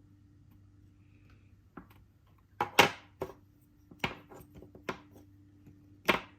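Wooden puzzle pieces knocking and clacking against each other and the wooden board, about seven sharp knocks at uneven intervals, the loudest a little under three seconds in and again near the end.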